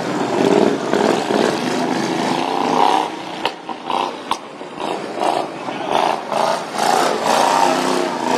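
Racing lawn mower engines running and revving up and down, with a few sharp clicks midway.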